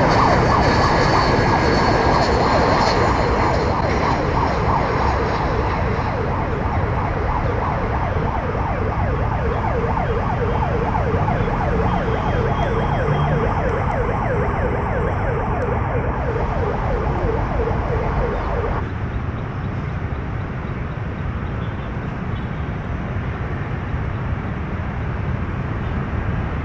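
Jet airliner engines running loud and steady, with a high whine over a deep rumble; the sound drops off somewhat about two-thirds of the way through.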